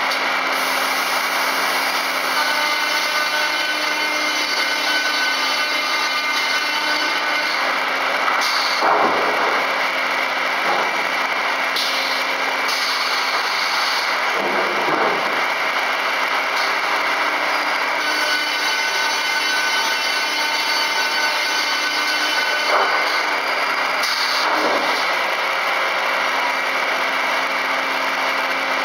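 FKD 500 double arbor circular saw running steadily, with a constant machine hum and whine. Three times the sound briefly dips and swoops low.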